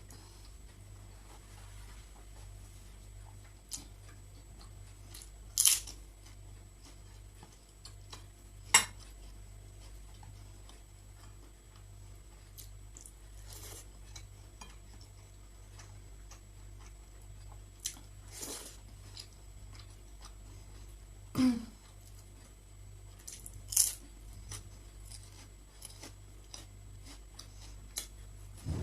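Close-up eating sounds: soft chewing with about five short, sharp clicks and crunches spread through, over a steady low hum.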